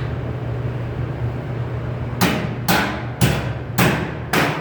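Hammer blows on sheet metal, five sharp strikes at about two a second starting about halfway in, each ringing briefly, over a steady low hum.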